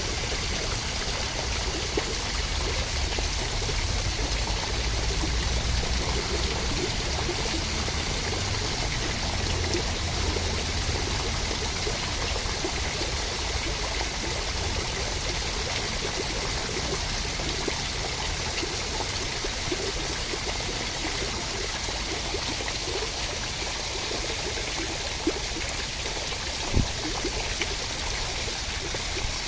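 Steady, continuous rushing water with an even hiss, without pauses, with two short knocks near the end.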